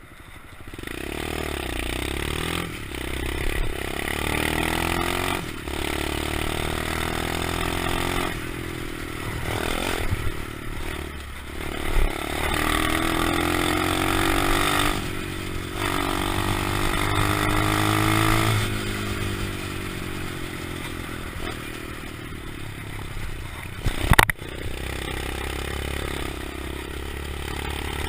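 125cc pit bike engine revving up and falling back again and again as it is ridden, with brief drops in between. There is a single sharp knock near the end.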